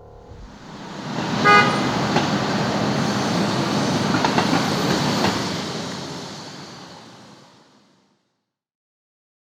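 A short horn toot about a second and a half in, over a rushing vehicle-like noise that swells up and then fades away over several seconds.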